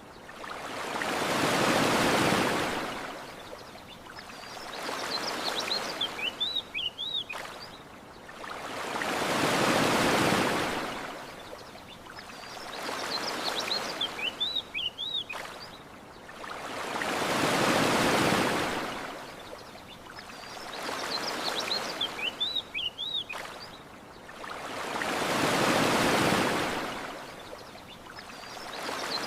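Ocean waves washing onto a shore in a slow rhythm: a larger wave swells and falls away about every eight seconds, with a smaller one in between. Short clusters of high bird chirps come between the waves.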